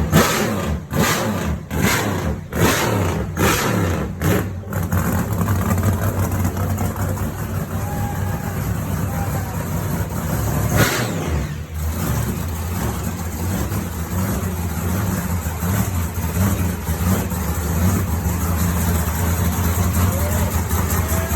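Chevy truck engine catching as it is cranked, firing in loud, uneven pops about once or twice a second for the first four and a half seconds, then settling into steady, loud running with one brief rev near the middle.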